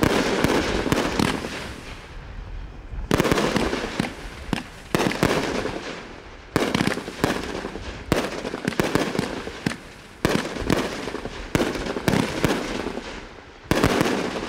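A 500-gram, 24-shot consumer fireworks cake firing in a steady sequence: about eight shots go off, one every two seconds or so. Each is followed by a dense crackle that fades before the next.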